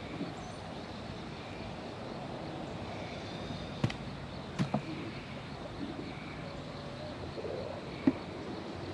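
A few sharp knocks and clicks from beehive boxes and frames being handled, over a steady low background noise.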